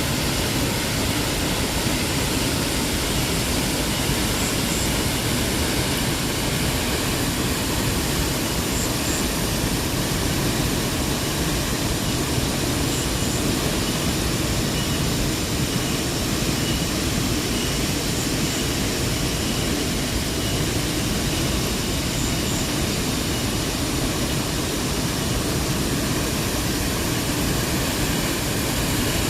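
Waterfall roaring: a steady, even rush of falling water. A faint high double chirp repeats every four or five seconds.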